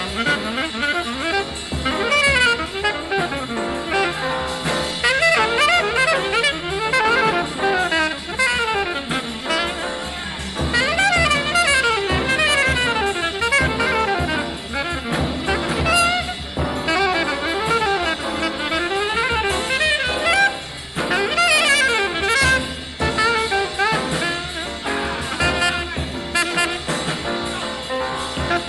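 Fast bebop jazz: a saxophone solos in quick runs up and down, with drums and bass keeping time behind it.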